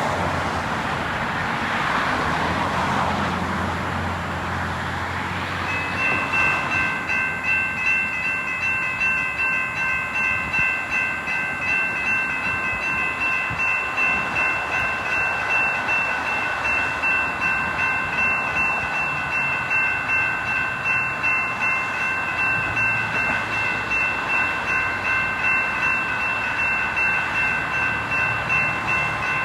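Railroad grade-crossing warning bell starts ringing about six seconds in and keeps up a steady, rapid ding, about one and a half strokes a second: the crossing has activated for an approaching train. Before it, a broad rushing noise with a low hum, like traffic in slush, fills the first few seconds.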